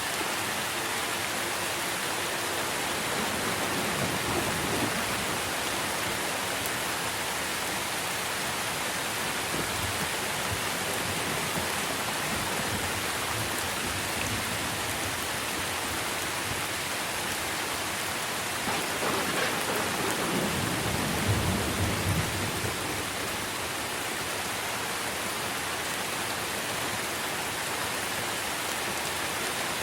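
Steady heavy rain falling on trees, with a low roll of thunder about four seconds in and a longer, louder rumble about two-thirds of the way through.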